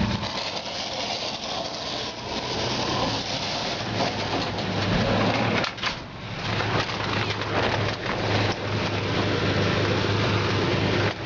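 Water spraying hard onto an engine, a steady hiss and splatter over a low, steady machine hum, broken off briefly about six seconds in.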